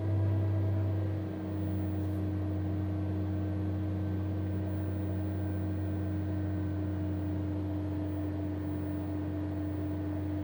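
MG ZS engine idling steadily, with an even, unwavering note, the engine running smoothly with its misfire fixed.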